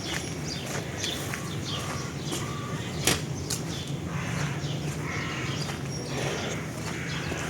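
Small birds chirping repeatedly with short falling calls over a steady low hum of outdoor ambience, with a single sharp click about three seconds in.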